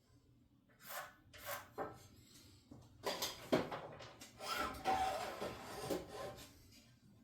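Wood rubbing and scraping against wood as a cut wooden stud is worked into place in the wall frame. A few short knocks come about a second in, then longer scraping strokes.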